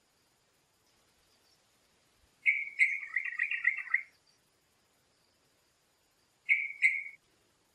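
A songbird calling: a rapid phrase of chirping notes lasting about a second and a half, then a short two-note call near the end.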